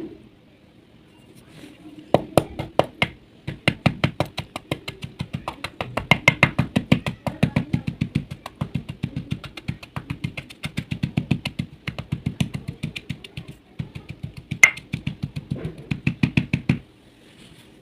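Baked clay (mitti ki barfi) crunching and cracking in a rapid run of sharp cracks, starting about two seconds in and stopping suddenly near the end.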